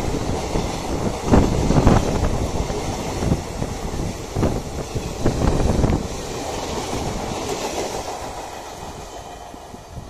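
Passenger express train rolling past, its wheels clattering over the rail joints in irregular knocks over a steady rumble. About six seconds in the knocks stop and the rumble fades away as the train moves off.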